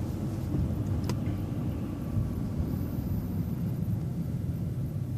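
City bus engine running with a steady low rumble, heard inside the bus, with one sharp click about a second in.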